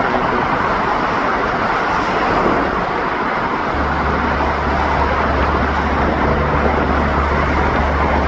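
Road traffic on a long bay bridge: a steady, loud rush of passing cars. About halfway through, a deeper steady hum joins in and holds.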